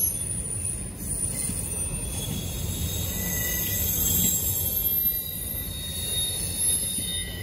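Freight train of autorack cars rolling past with a steady low rumble of wheels on rail. Thin, high-pitched wheel squeal rings above it.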